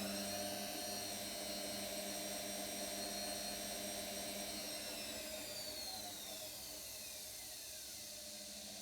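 Brushed motor of an empty Indesit IWC 71252W washing machine on a spin-and-drain cycle, with a steady low hum underneath. A high whine holds steady for about five seconds, then falls away in pitch over the following few seconds. The owner thinks the noise may be because the machine is new.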